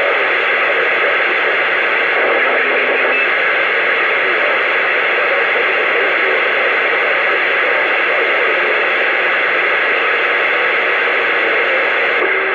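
Steady loud static hiss from a CB radio receiver between transmissions, the channel open with no readable signal.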